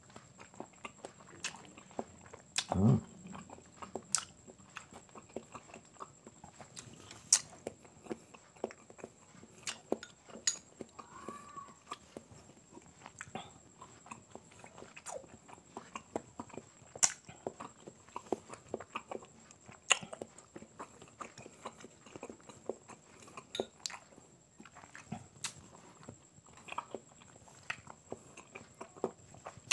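Close-miked chewing of boiled quail balut: wet mouth smacks and sharp clicks at irregular intervals, with a brief low hum about three seconds in.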